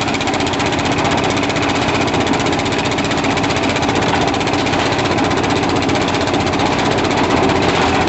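Engine-driven concrete mixer running steadily while it mixes a batch of concrete, a loud, even engine drone with a fast pulsing beat.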